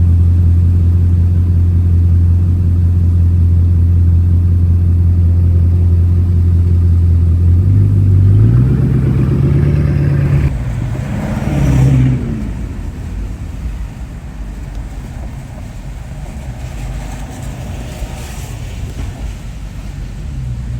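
Bugatti Chiron Sport's quad-turbo W16 engine running with a steady low drone, its pitch stepping up about eight seconds in and rising briefly once more a couple of seconds later, then settling to a quieter rumble.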